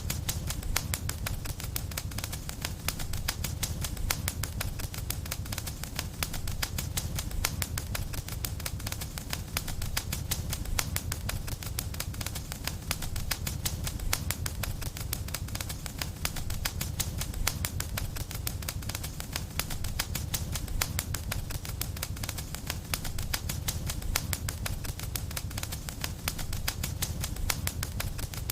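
Wood fire in a fireplace crackling steadily: dense, rapid pops and crackles over a low, even rumble of the flames.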